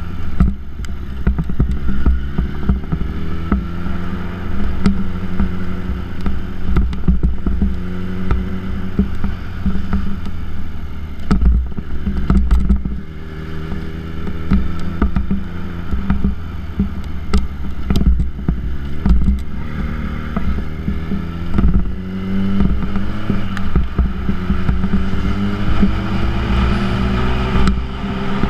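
Yamaha YZF-R1 inline-four through a Yoshimura titanium exhaust, pulling through the gears. The engine note rises, drops back and rises again several times, with wind buffeting on the microphone.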